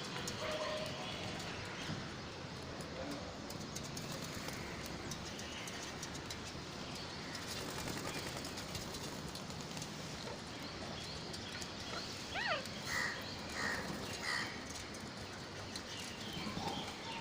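Steady background hiss, then from a little past the middle a sweeping bird call and a run of short, repeated bird chirps.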